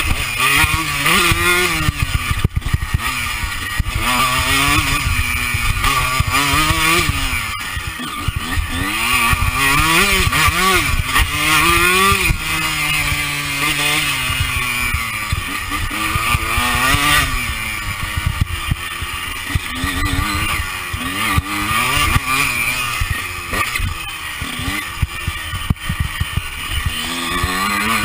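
Honda CR125 two-stroke motocross bike engine revving up and falling back again and again as it is ridden hard, with wind rush on a chest-mounted camera's microphone and knocks from the rough ground.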